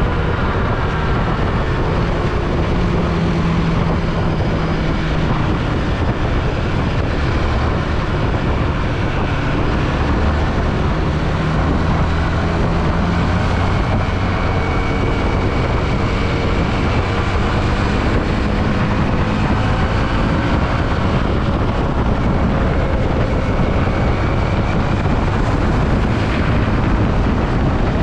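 Yamaha WR155 single-cylinder motorcycle engine running steadily while riding, its pitch drifting gently up and down, under steady wind rushing over the microphone.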